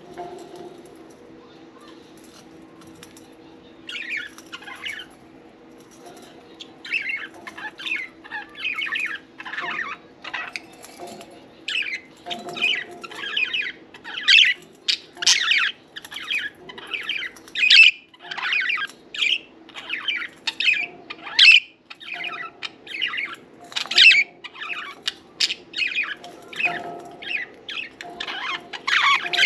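Budgies chirping and chattering: a run of short, sharp, high calls, a few at first and then coming thick and fast, some louder squawk-like notes among them.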